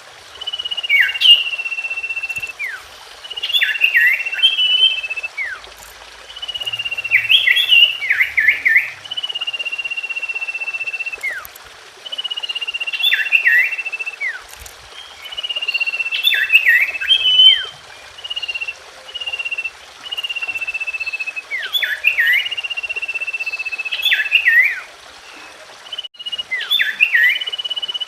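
Common iora (cipoh) singing a repeated phrase: a long, steady high whistle followed by a quick burst of sharp chirps and falling notes, coming again about every three seconds.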